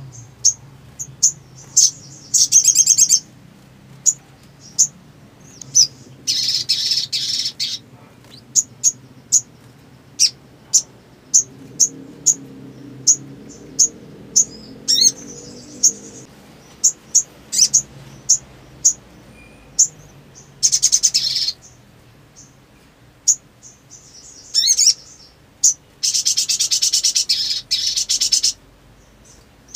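Sunbird calling: a run of sharp, high chips about every half second, broken by rapid buzzy trills about two and six seconds in and near twenty-one seconds, and a longer trill from about twenty-six to twenty-eight seconds.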